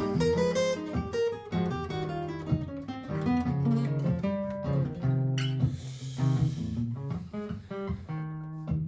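Martin GPCPA4 acoustic-electric guitar played through a looper: a looped guitar part with plucked single-note improvisation laid over it, many notes in quick succession.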